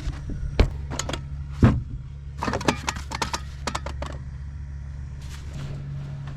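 Combine harvester engine running with a steady low hum, over which come scattered light metallic clinks and rattles, thickest between about two and four seconds in.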